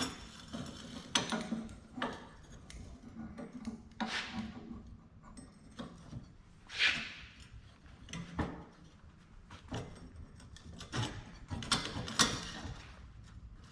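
Scrap metal parts and a clamp being handled and set in position: scattered knocks, clinks and short scrapes, about eight over the stretch, none of them loud.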